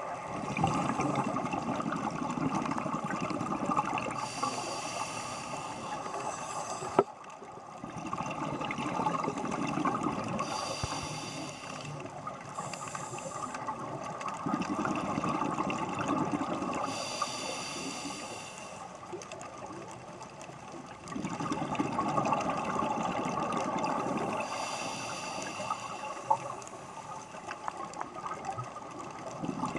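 Scuba diver breathing through a regulator underwater: a hiss on each inhale alternating with a burst of exhaled bubbles, about four breaths, one every six to seven seconds.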